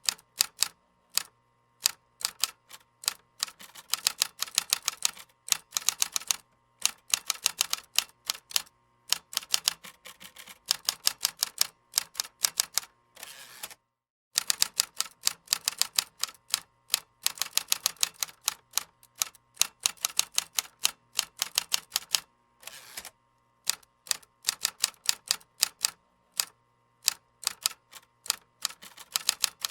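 Typing on a computer keyboard: quick runs of sharp key clicks, several a second, broken by short pauses between bursts.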